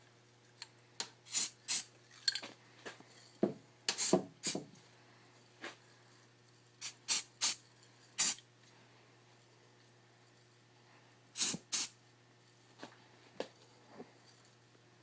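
Aerosol spray-paint can giving a dozen or more short sprays, each a brief hiss, in irregular clusters over a low steady hum.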